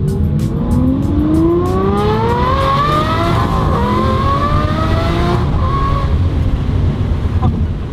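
Aston Martin V12 Vantage's V12 engine accelerating hard: the revs climb for about three seconds, step down through a quick upshift, climb again, then fall away as the throttle closes a little over five seconds in.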